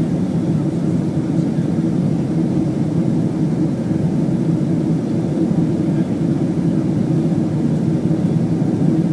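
Steady cabin noise inside a Boeing 767-300ER in flight on approach: an even, low drone of jet engines and airflow, unchanging in level throughout.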